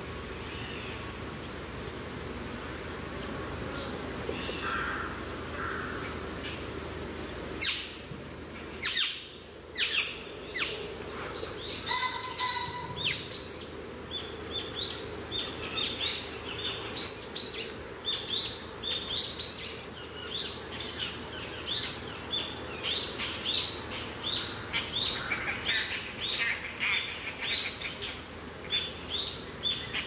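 Wild birds chirping in woodland: many short, quickly repeated high notes, each dropping in pitch, that start about eight seconds in and run thickly on. Before that there is a steady low hum with only a few faint calls.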